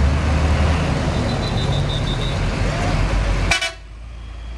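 Heavy truck passing close with loud engine rumble and road noise. About three and a half seconds in, a short horn toot, then the sound drops abruptly to quieter traffic.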